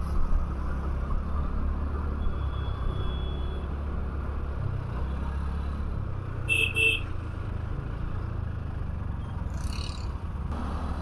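Motorcycle riding in slow city traffic: a steady low engine and road rumble, with a brief double beep about six and a half seconds in.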